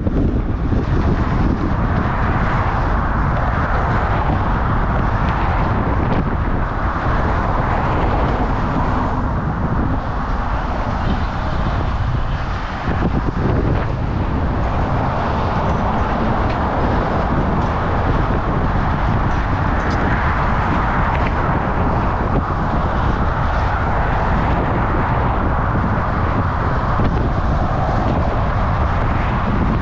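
Steady wind rushing over the microphone while riding a bicycle, with road and traffic noise mixed in.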